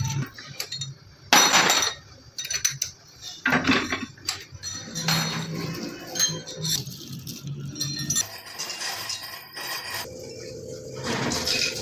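Irregular clinks and knocks of metal parts being handled, over a faint low hum.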